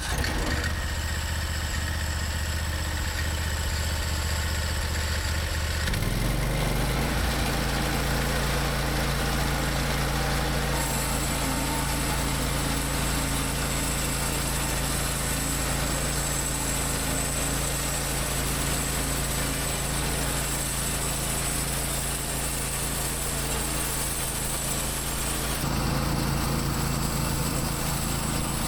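Hud-Son HFE-33 bandsaw mill's engine idling, then throttled up about six seconds in and running steadily at speed. A high hiss joins it about a third of the way through and drops away near the end.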